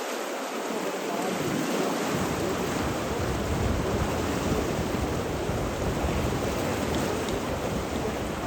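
Steady rushing water, a dense even hiss, with a deeper rumble filling in about two seconds in.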